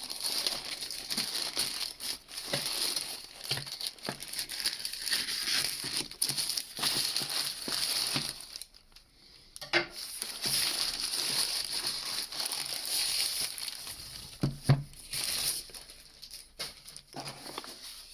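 Packaging being opened and handled: continuous crinkling and rustling, pausing briefly about halfway through, with a few sharp knocks.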